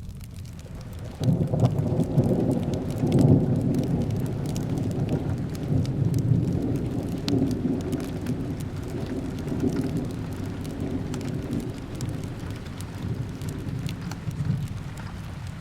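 A long rumble of thunder that starts suddenly about a second in and slowly fades, over steady rain. Small fireplace crackles tick through it.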